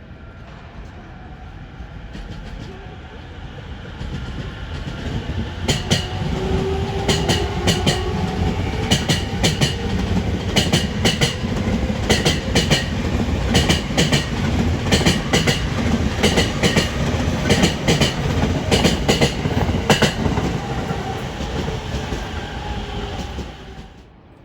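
A Sobu Line train passing close by, its wheels clicking over the rail joints in quick groups of clicks over a steady rumble, with a faint whine. It builds over the first few seconds and stops suddenly near the end.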